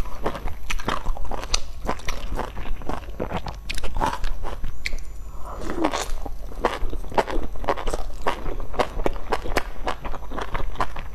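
Close-miked chewing of pan-fried dumplings: a steady run of wet mouth clicks and smacks, with a fresh bite into a dumpling about six seconds in.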